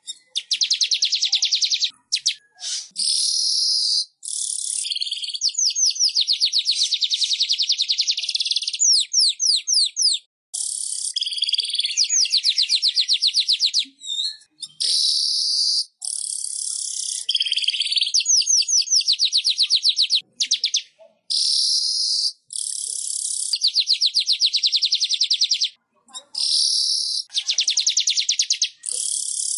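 Weaver bird (manyar) song: long runs of rapid, high-pitched repeated notes and trills, broken by short pauses every few seconds.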